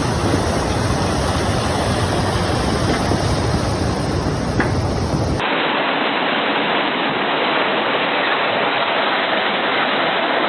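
Floodwater rushing past in a loud, steady wash of noise. About five seconds in it cuts to a second recording of rushing water that sounds thinner, with its high end cut off.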